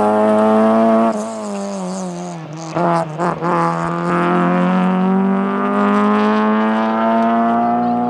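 Honda Civic rally car's engine at high revs. The pitch drops as it lifts off about a second in, then come a couple of short throttle blips around three seconds in, then the revs climb steadily as the car accelerates.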